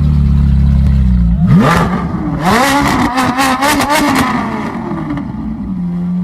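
Car engine idling, then revved hard about a second and a half in, held high with a rapid run of sharp cracks, and dropping back to idle near the end.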